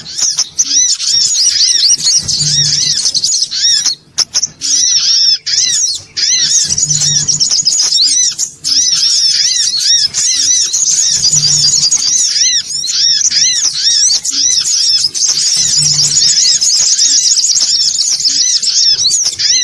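Songon otong sunbird song used as a lure call: a noisy, nearly unbroken chatter of quick, high, arched notes repeated several times a second, with only brief breaks. A faint low hum comes back about every four and a half seconds.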